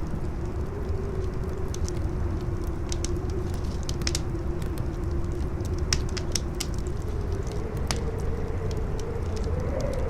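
Campfire crackling with scattered sharp pops over strong howling wind. The wind's moaning tone wavers and rises slightly near the end, over a low rumble.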